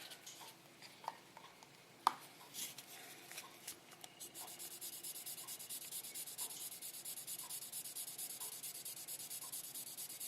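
Fine 8,000-grit wet sandpaper rubbed back and forth on the painted body of a scale model car, settling into quick, even strokes a couple of seconds in: a late polishing stage that brings up the paint's shine. A sharp click about two seconds in.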